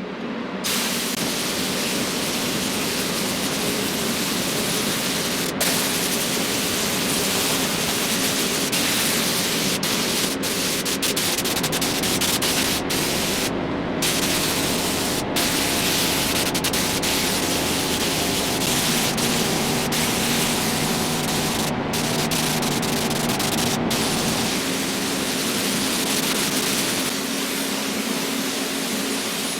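Loud steady hiss of a high-pressure spray or blasting gun on the engine casings, cut off sharply for an instant several times as the trigger is let go, over a low machine hum.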